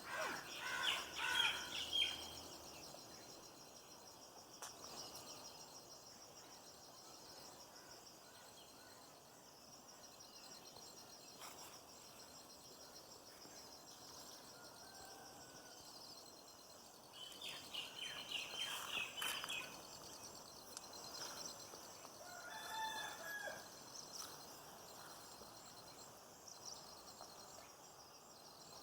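Birds calling outdoors: loud bursts of calls near the start and again about two-thirds of the way in, then a shorter call soon after, over a steady high-pitched pulsing drone.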